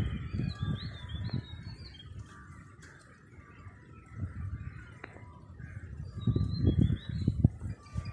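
Birds chirping in quick whistled notes that rise and fall, in two bouts: one at the start and one about six seconds in. Under them runs an uneven low rumble that swells at the same times.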